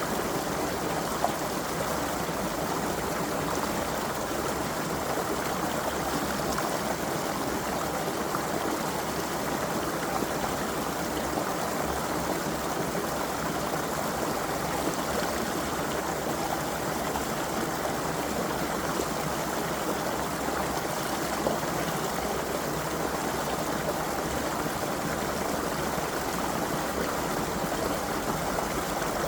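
Creek water flowing steadily over stones, an even rushing and burbling with small splashes.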